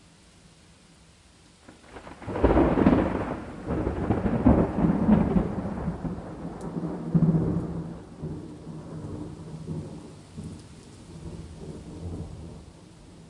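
Thunder over steady rain: a thunderclap breaks about two and a half seconds in, then rumbles on in several swells that fade away over the next ten seconds, with the rain's hiss underneath.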